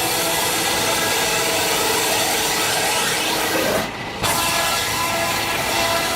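Band saw cutting through a log: a steady sawing sound with a brief dip about four seconds in.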